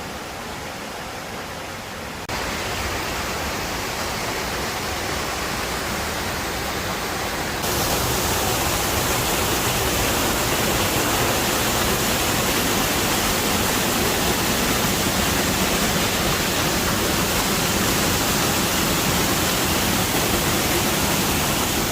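Waterfall rushing in a steady, even roar. It grows louder in two sudden steps, about two seconds in and again about eight seconds in.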